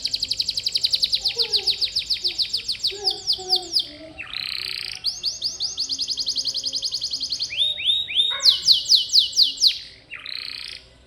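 Domestic canary singing: long, rapid trills of about ten repeated notes a second that change phrase every few seconds, broken by a couple of short buzzy notes.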